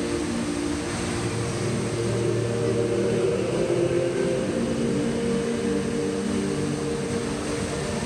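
Steady rush of the Rain Vortex indoor waterfall, with long held low notes from the light show's soundtrack that change every second or two.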